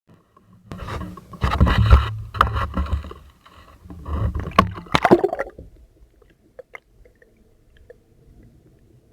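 Scraping and rustling handling noise close to the microphone, with a few sharp knocks, in two bursts of a couple of seconds each, then quieter.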